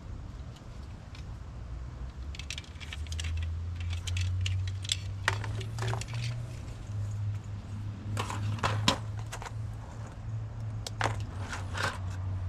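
Small metal objects clinking and jingling in irregular clusters of light clicks, as when hand tools or small hardware are handled, over a steady low hum.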